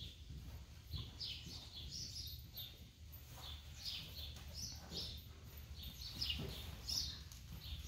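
Small birds chirping faintly and repeatedly in quick short calls, over a low steady rumble.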